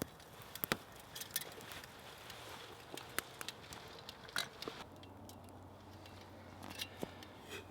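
Small wood fire crackling, with irregular sharp snaps and pops. A faint steady low hum comes in about five seconds in.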